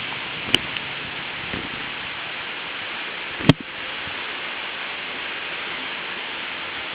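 Steady hiss, with a sharp click about half a second in and a louder click about three and a half seconds in.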